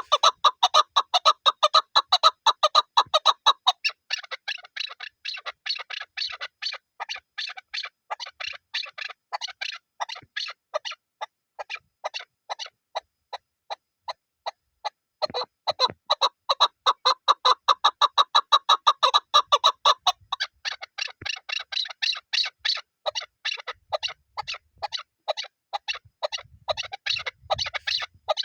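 Chukar partridge calling: a long, fast run of short clucking notes, several a second, louder during the first few seconds and again from about fifteen to twenty seconds in.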